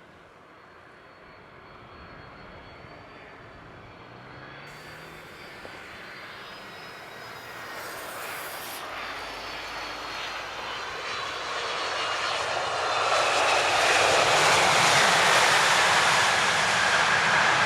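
Boeing 767 twin-turbofan jet approaching, its engine noise growing steadily louder for about fourteen seconds and then holding loud, with a faint high whine in the first half.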